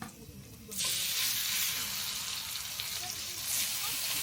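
Food frying in a hot pan: a sizzle that starts suddenly about a second in and then goes on steadily.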